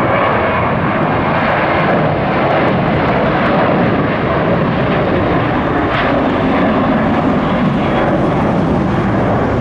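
Jet airliner engines at takeoff power, a loud, steady rushing noise from a departing plane.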